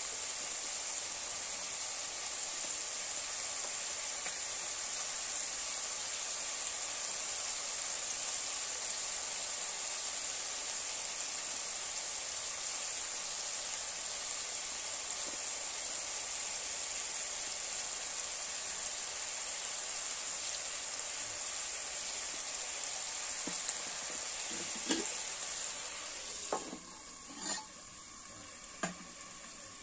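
Chicken pieces and onions sizzling in hot oil in a wok: a steady frying hiss. Near the end a few sharp metal clanks come as the wok is covered with its metal lid, and the sizzle falls much quieter.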